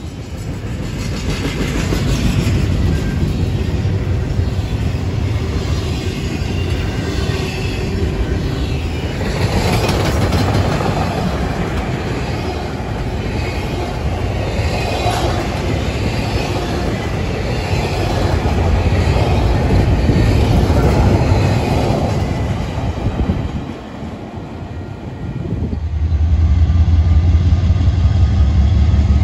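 Intermodal freight cars rolling past on the track, the wheels clattering over the rail. Near the end comes the low, steady rumble of diesel locomotives.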